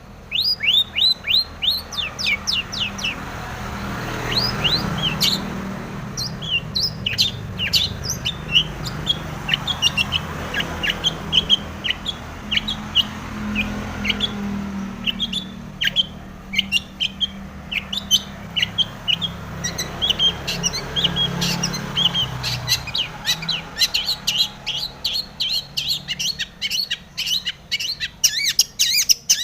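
Long-tailed shrike (cendet) singing a fast, varied song of short chirps, sweeps and trills, packed with mimicked calls of other birds. A low hum swells in and out beneath it.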